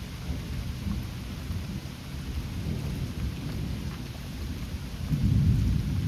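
Rolling thunder rumbling over steady rain, the rumble swelling louder about five seconds in.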